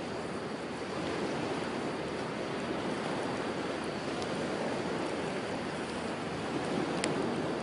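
Sea waves washing steadily on the shore, swelling a little, with a few faint sharp crackles from a campfire, the clearest near the end.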